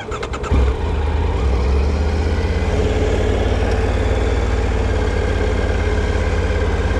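2024 Triumph Tiger 900 GT Pro's three-cylinder engine. A brief run of clicks comes first. About half a second in, the engine comes up and then runs at a steady idle with a fast, even pulse.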